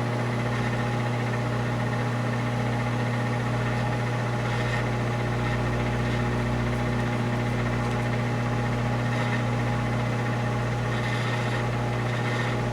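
Steady low machine hum with a strong low tone and overtones, unchanging.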